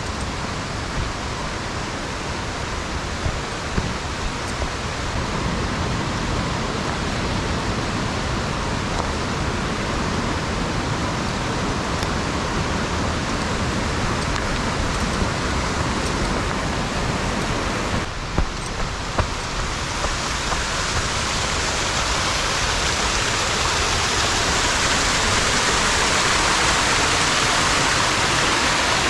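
Steady rush of falling water from a waterfall. About two-thirds of the way through it shifts suddenly and becomes louder and brighter, with a few light knocks just after the change.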